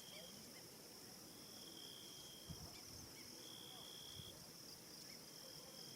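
Faint evening insect chorus in the bush: a steady high buzz with held high trills, each up to about a second and a half long, coming in four times. There are a few faint chirps and two soft low thumps.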